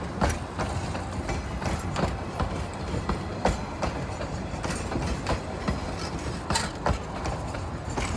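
Narrow-gauge train rolling on the rails, its wheels clicking and knocking irregularly over rail joints above a steady low rumble.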